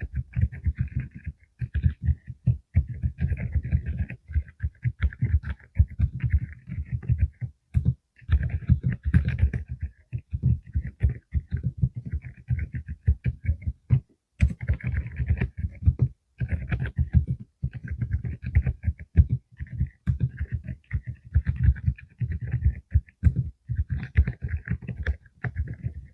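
Steady typing on a full-size mechanical keyboard with Deep Sound low-noise switches (45 g): rapid, muffled keystrokes with a deep thud, the quiet sound these switches are built for. The typing pauses briefly twice.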